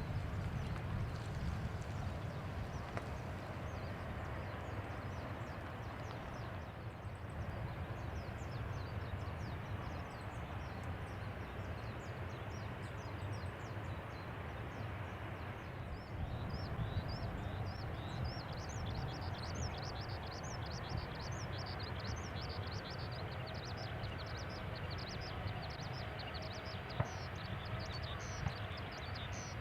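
Steady low rumble of a Boeing 737-800's CFM56-7B jet engines at taxi power, with many short, high bird chirps over it, growing busier about halfway through.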